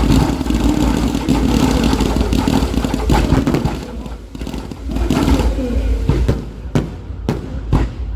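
Fireworks display going off: a dense run of crackling and bursts, then a string of sharp bangs about half a second apart in the last couple of seconds.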